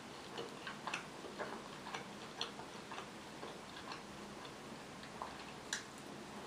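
Close-miked chewing of food, with irregular soft wet mouth clicks and smacks, two or three a second, and one sharper click near the end as she bites into another piece.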